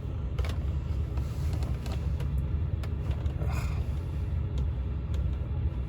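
Low, steady rumble of the Chevy Avalanche's engine idling, heard from inside the cab, with a few faint clicks.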